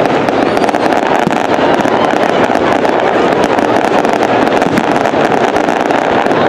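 Fireworks display going off continuously: a dense, steady crackle of many small bursts.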